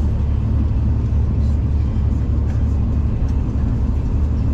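V/Line passenger train running at speed, heard from inside the carriage: a steady low rumble with faint ticks and rattles.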